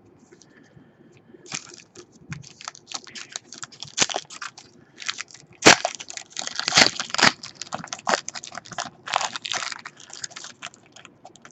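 Foil trading-card pack wrapper being crinkled and torn open by hand, a dense run of irregular crackles starting about a second and a half in; the pack is hard to get open.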